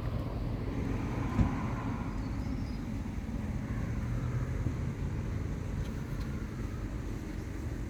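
Steady low rumble of road traffic, with one sharp knock about a second and a half in.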